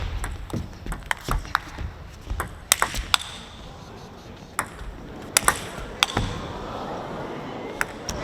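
Table tennis rally: the celluloid-type ball clicking sharply off rackets and table, a dozen or so irregular hits over a quiet arena background.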